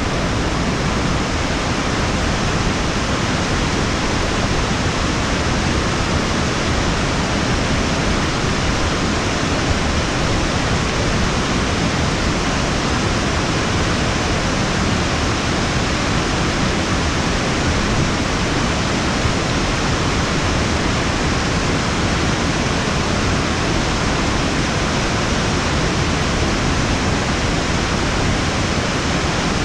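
Waterfall rushing steadily: a loud, unbroken noise of falling water.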